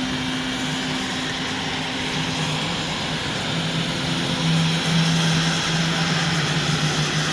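Autonomous floor-scrubbing robot running: a steady motor drone with a low hum over a broad hiss, the hum shifting slightly about halfway through.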